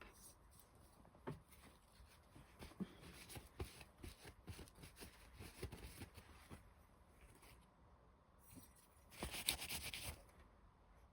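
Faint rubbing and light clicks of hand cleaning on the underside of a Singer Genie sewing machine. A louder brushing rustle comes about nine seconds in.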